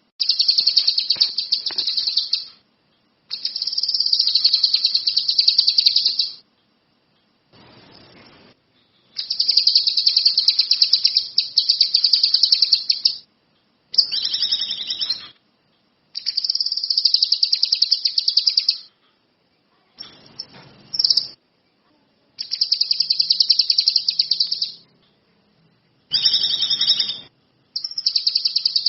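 A kinoi songbird singing full, energetic song: a series of loud, high-pitched rapid trills, each phrase lasting one to four seconds with short pauses between them.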